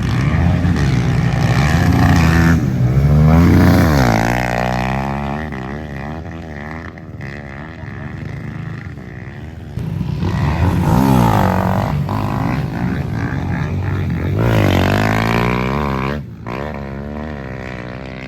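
Dirt bike engines revving up and down through the gears as riders go round a motocross track, loudest in the first few seconds and again about ten to sixteen seconds in.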